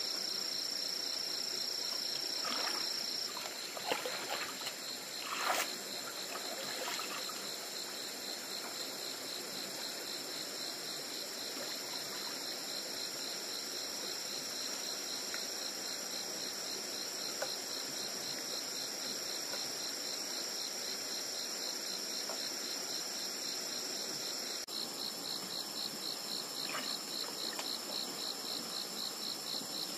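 Night insects, crickets among them, trilling steadily in several high-pitched bands over a faint hiss. One steady trill stops about three seconds in and returns later, a few soft rustles come a few seconds in, and near the end one band turns into a rapid pulsing chirp.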